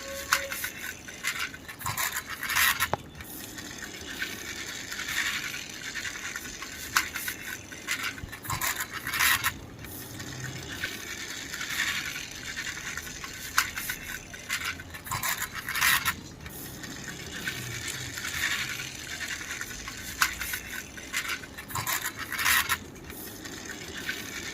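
Plastic toy vehicle being pushed back and forth over a hard surface: its wheels scrape and rattle in repeated runs of about a second, with occasional sharp clicks.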